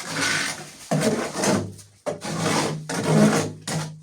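Hand trowel scraping and smoothing wet cement on a floor, four rough strokes about a second apart.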